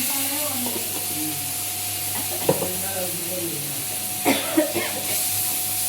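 Onions and ginger-garlic paste sizzling in hot oil in a pan while being stirred, with a ladle knocking against the pan once about halfway through and twice close together later.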